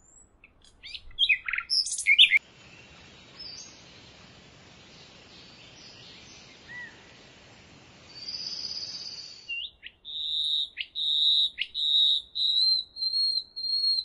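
Songbirds calling: a quick run of sharp chirps that sweep up and down in pitch in the first couple of seconds, then a few seconds of soft even hiss with faint calls. From about ten seconds in, a bird whistles long, high, steady notes broken by quick downward-sliding calls.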